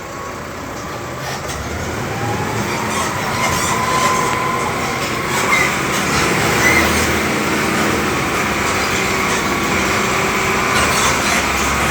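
A vehicle travelling over a rough, rain-damaged dirt road: a steady engine under continuous rattling and jolting, gradually growing louder, with a few brief squeaks.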